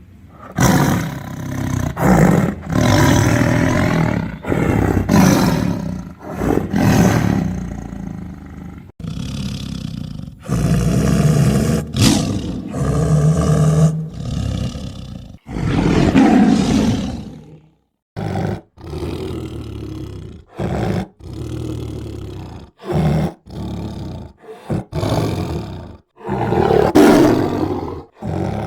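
Tiger roaring and growling again and again, each roar loud and deep. In the first half the roars are long, some lasting two or three seconds; from about halfway they turn shorter and choppier, several cutting off abruptly into silence.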